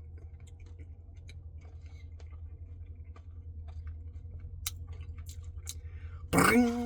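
Faint chewing and small, scattered mouth clicks of a person eating ice cream. Near the end a voice hums a short, steady note.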